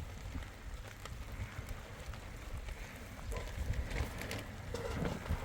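Wind gusting against the microphone as a fluctuating low rumble, with scattered small knocks and clicks.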